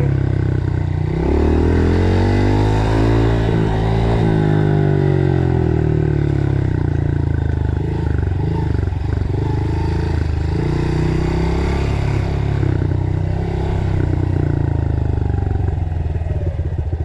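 Dirt bike engine running while being ridden, its pitch rising and falling as the throttle opens and closes.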